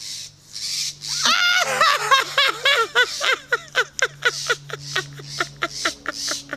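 A person laughing: a long run of quick laughs that slows and fades.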